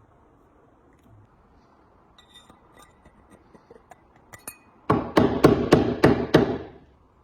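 Hammering: a few light clinks, then a quick run of about seven hard blows, roughly four a second, that stops abruptly.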